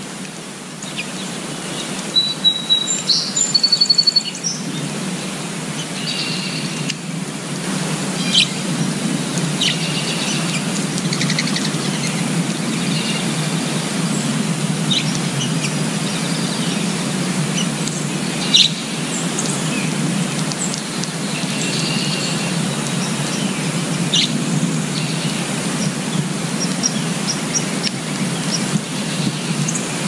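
Wild birds chirping and calling over a steady background hiss, with short chirps and trills scattered throughout and a burst of rapid chirps about two to four seconds in.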